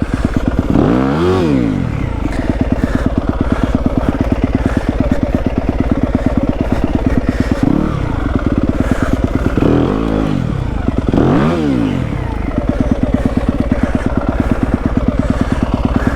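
Yamaha WR250F's single-cylinder four-stroke engine running steadily, with about four short throttle blips whose pitch rises and falls. The dirt bike is trying to get over a branch on a slippery climb and is getting stuck.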